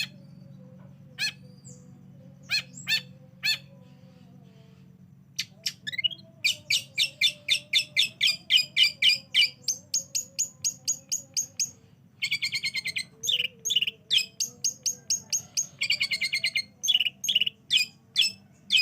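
Long-tailed shrike (cendet) singing. A few sharp single calls come first, then about six seconds in it breaks into fast runs of repeated high notes, several a second, with harsher chattering bursts later on, over a faint steady low hum.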